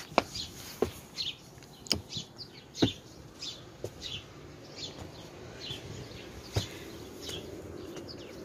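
Small birds chirping repeatedly in short, high, falling calls, with a few sharp knocks mixed in.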